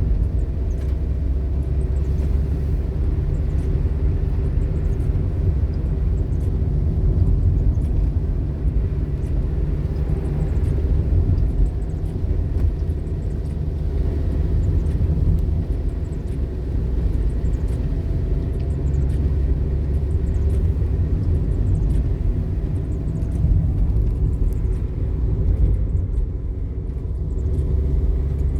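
Toyota car heard from inside the cabin while climbing a hill road: a steady low rumble of engine and tyres with a faint engine hum and scattered small ticks and rattles.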